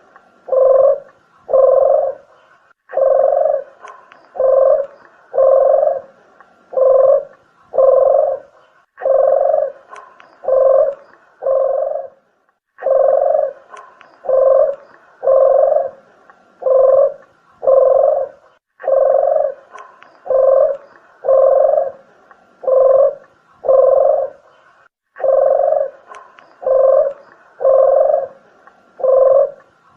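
Deruk dove cooing as a lure call: a steady series of low, rounded coo notes, about one to two a second, in runs of several notes broken by short pauses.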